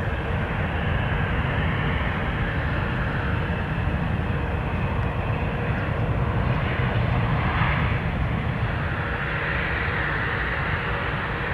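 Airliner engines running, a steady jet rush with a faint whine, growing a little louder about two thirds of the way through.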